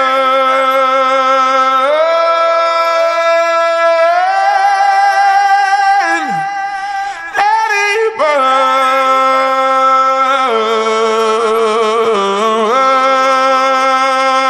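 A solo voice singing long wordless held notes, one after another, stepping and sliding between pitches, with a quick downward slide about six seconds in and a wavering vibrato later on, with little or no accompaniment.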